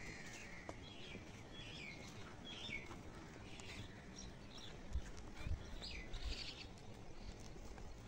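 Small birds chirping over and over in short calls, with a few low thuds about five to six and a half seconds in.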